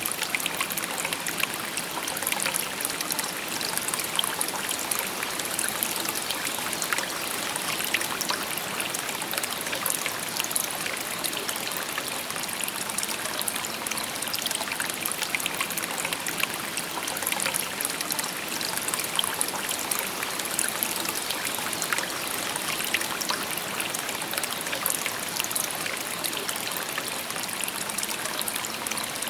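Shallow river babbling steadily, water trickling and splashing over stones in a continuous bright murmur.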